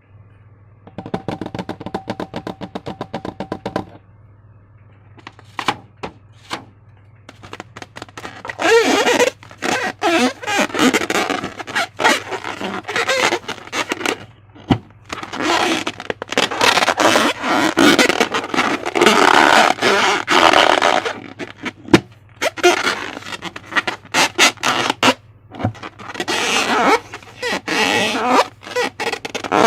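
Slime being squeezed and worked by hand, crackling, clicking and squelching in irregular bursts with rubbery scraping.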